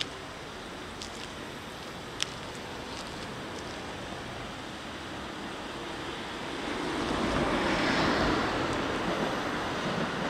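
Steady outdoor rushing noise that swells from about seven seconds in as an approaching Kintetsu electric train draws near along the track, with one sharp click about two seconds in.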